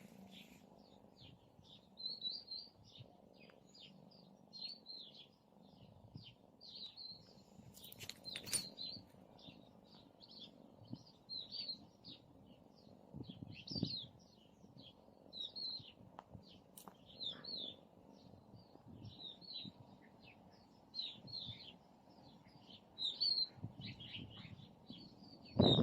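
Small bird chirping over and over in short, high chirps, several a second, with a sharp knock about eight seconds in.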